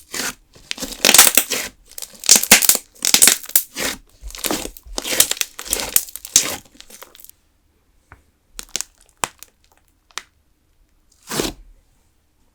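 Putty-style clear slime worked into a fluffy texture being stretched and squeezed by hand, crackling and popping in bursts about once a second. The play stops after about seven seconds, leaving a few faint clicks and one more short squish near the end.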